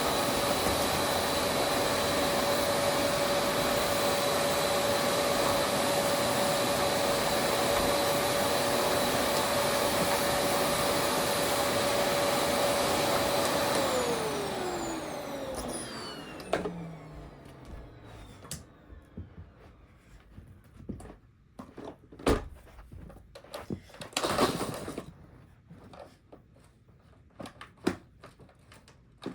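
Vacuum cleaner running steadily with a constant whine, then switched off about halfway through, its motor winding down in a falling whine over a few seconds. Afterwards come scattered knocks and clicks of handling, with one sharper knock and a brief rush of noise.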